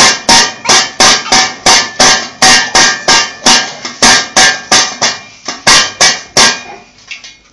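A fast run of hard knocks on something that rings slightly, nearly three a second and about twenty in all, stopping shortly before the end.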